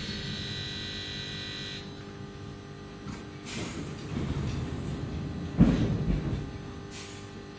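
Inside an electric train carriage: the drive's steady whine cuts off about two seconds in, leaving a low running rumble with a couple of light knocks and one heavy thump a little past halfway.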